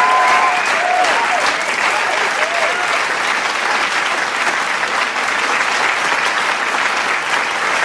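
Large crowd applauding steadily with dense clapping, with a few cheers and whoops over it in the first few seconds.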